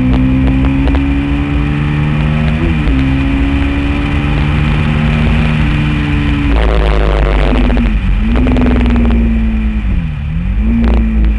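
Honda VTR1000 SP1's V-twin engine running hard at speed, heard from an onboard camera, its note dipping sharply and picking up again three times at upshifts. Loud wind rush on the microphone through the middle.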